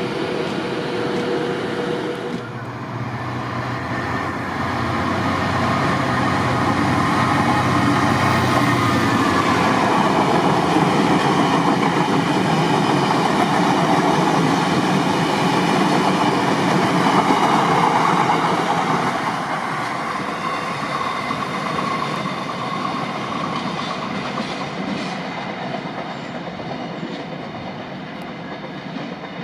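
A train passing along the rails: a broad rumble that builds to a peak over the middle and fades toward the end. A steady low hum runs through the first third.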